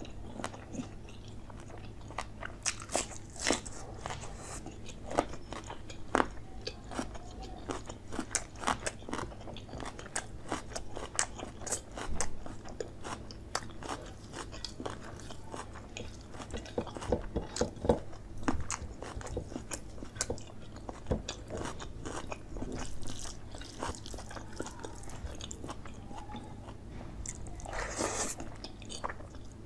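Close-miked eating by hand: irregular crunchy bites and chewing of chicken curry, rice and raw onion, with many sharp mouth clicks.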